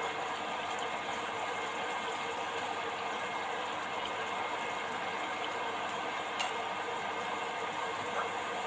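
Electric countertop blender running steadily at constant speed.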